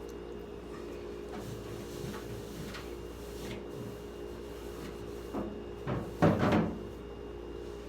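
Plastic refrigerator drawers and shelf pieces being handled and fitted back in: a few light knocks, then a louder clatter in three quick bursts in the second half, over a steady low hum.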